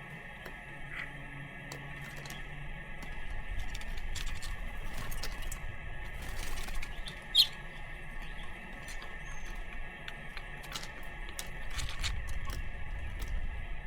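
European starlings at a backyard feeder: scattered clicks, squeaks and wing flutters, with one sharp, loud squeak about seven seconds in, over a low steady rumble.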